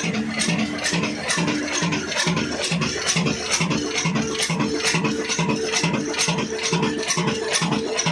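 Old Ruston diesel engine running steadily, with an even, loud beat of about two and a half strokes a second and a metallic clatter on each beat.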